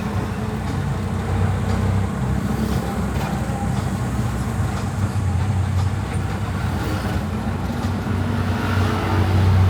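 Steady low rumble of an electric tricycle (e-bike tuk-tuk) riding along the road, heard from inside its passenger cab.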